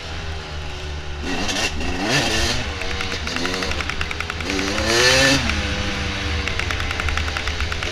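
Dirt bike engine revving up and down several times as the throttle is worked, its pitch rising with each rev and loudest about five seconds in, over a steady low rumble.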